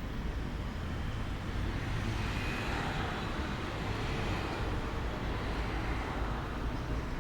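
Steady outdoor rumble that grows louder for a few seconds in the middle.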